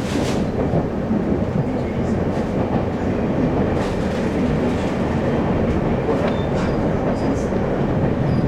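Running sound of a Taiwan Railways local express train heard from inside the passenger car: a steady low rumble of wheels on rail.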